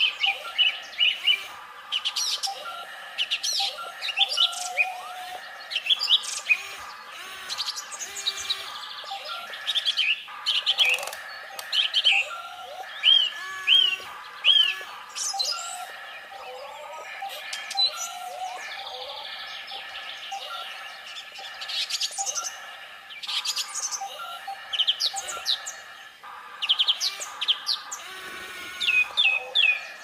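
Birds chirping and singing, many short sweeping calls in quick runs, one after another throughout.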